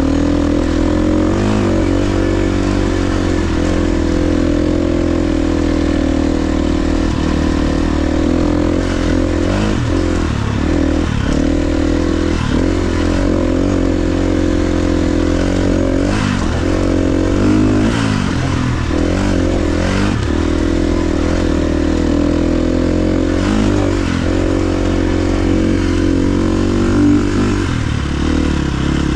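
KTM XC-F 350's single-cylinder four-stroke engine running while the dirt bike is ridden, its pitch dipping and rising several times in the middle as the throttle is rolled off and back on.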